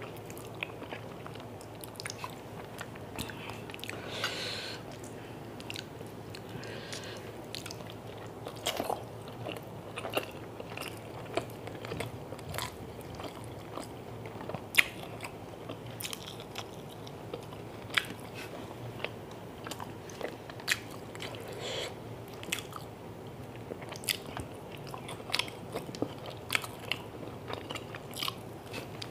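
Close-miked eating sounds of a person chewing rice and chicken curry eaten by hand: wet chewing and lip smacks, with many short, sharp clicks scattered irregularly throughout.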